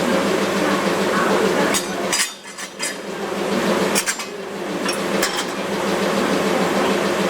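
Interior running noise of a locomotive-hauled passenger coach on the rails: a steady rumble and hum with sharp clicks and rattles from the wheels and fittings. The noise dips briefly about two seconds in, then returns.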